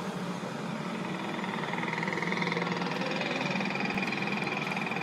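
Small child's motorcycle running steadily, a buzzing drone with a high whine that gets a little louder about two seconds in.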